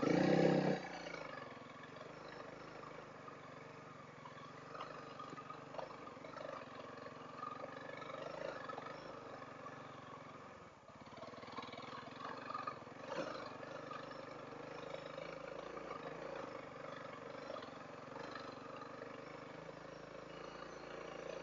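Honda CRF300L's single-cylinder engine running steadily under way on a dirt trail, with a louder burst in the first second and a brief drop in throttle about eleven seconds in.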